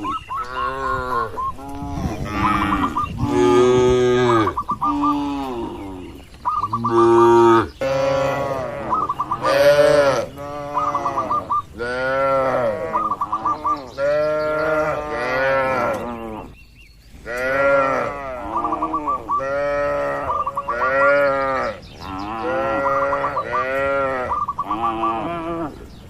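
Cattle mooing over and over, calls at different pitches overlapping almost without a break, with a short pause about two-thirds of the way through.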